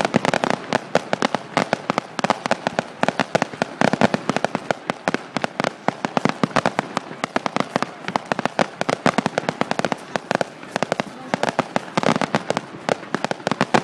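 Fireworks display: a dense, continuous barrage of sharp bangs and crackles, several a second without a break.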